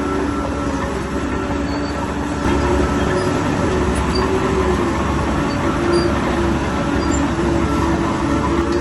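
Heavy bulldozer working: diesel engine running under load with the steel crawler tracks clanking and squealing, a little louder from about two and a half seconds in.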